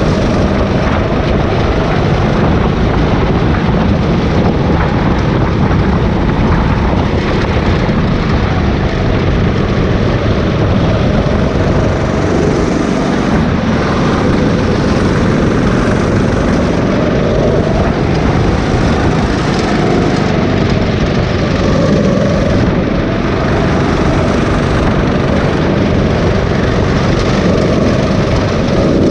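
Go-kart engine running hard and steadily during a race, heard loud and close, its note drifting up and down as the throttle changes.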